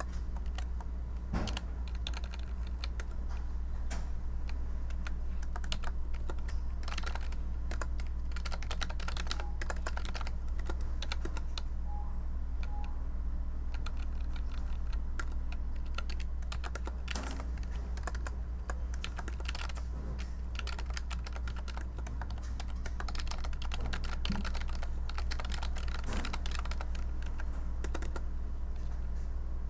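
Typing on a computer keyboard: key clicks in irregular bursts with short pauses between them, over a steady low hum.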